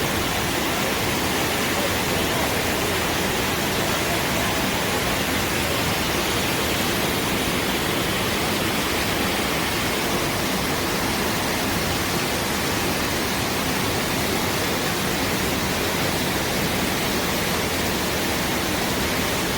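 Waterfall and rushing river water: a steady, even rush of falling water.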